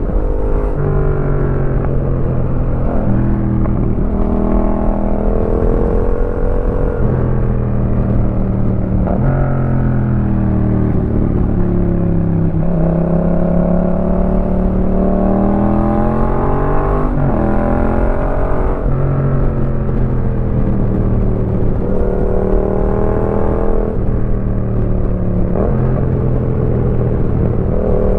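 Yamaha MT-07's 689 cc parallel-twin engine breathing through an aftermarket Roadsitalia exhaust while riding. It pulls and revs up, then the pitch drops sharply at gear changes, over and over. Around the middle it sinks low for a few seconds before climbing again.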